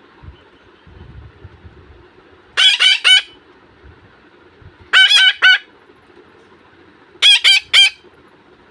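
Pet parrot calling loudly in three bursts of three to four quick, wavering notes each, about two and a half seconds apart.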